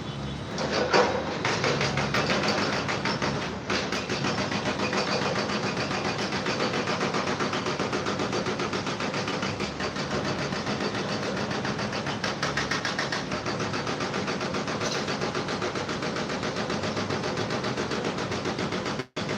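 A machine running with a rapid, even rattle that holds steady throughout, cutting out for an instant near the end.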